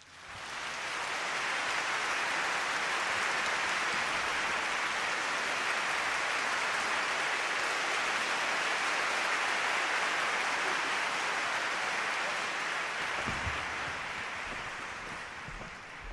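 Audience applauding, swelling up right away, holding steady, then dying down near the end.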